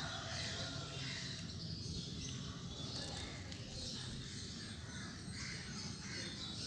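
Faint outdoor ambience with birds chirping intermittently in the background.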